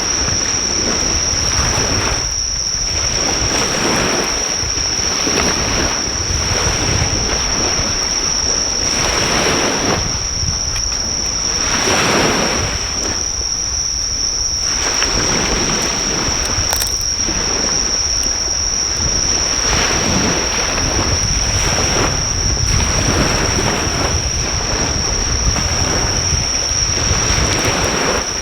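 Waves breaking on a beach, swelling and falling back every few seconds, with a steady high-pitched insect trill throughout and wind rumbling on the microphone. The crackle of a driftwood campfire is barely audible beneath.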